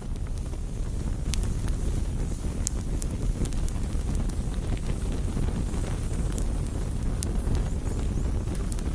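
Wood campfire burning: a steady low rush under scattered sharp crackles and pops of burning wood.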